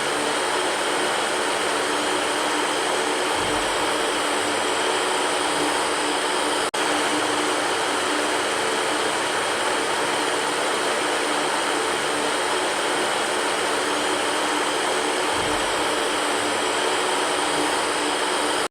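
Electric fan running steadily: an even rushing noise with a faint hum under it, cutting out for a split second about seven seconds in.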